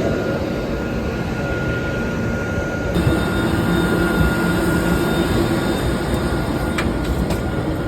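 Steady vehicle rumble with a faint constant whine above it; the noise changes about three seconds in.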